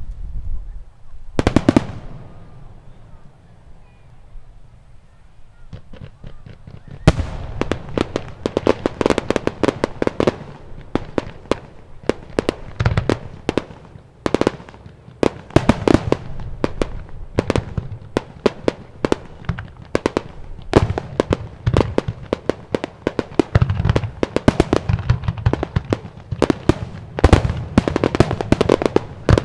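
Aerial firework shells bursting. There is one bang about a second and a half in, then a pause. From about seven seconds on comes a rapid barrage of many overlapping bangs and crackles that goes on without a break.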